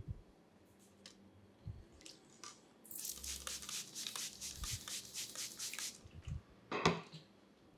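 Close-up sounds of a barber working on a client's hair: a few small clicks, then about three seconds of rapid rasping strokes, and a short louder noise near the end.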